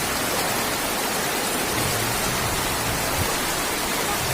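Steady, even hiss of rushing water from a flood running over the road.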